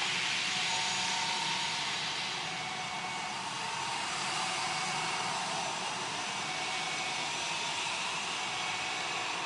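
Jet airliner engine noise: a steady rushing sound with a faint whine, slowly easing after its loudest point just before this stretch, as a jet climbs away after takeoff.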